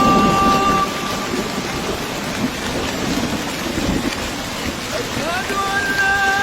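Heavy rain falling steadily, an even hiss. A held melodic tone sounds over it during the first second and again from about five seconds in.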